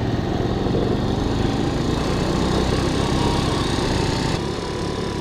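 A small engine running steadily. About four seconds in, the sound drops slightly in level.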